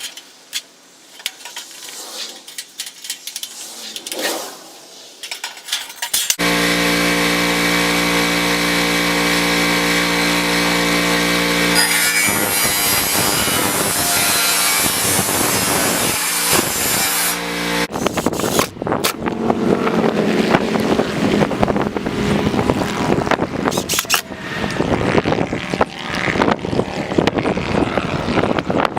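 Some handling noises, then about six seconds in the small gas engine of a Ryobi 3000 PSI pressure washer starts and runs steadily. About twelve seconds in a loud hiss of high-pressure water spray takes over, and from about eighteen seconds the spray keeps going, its sound rising and falling as the jet moves.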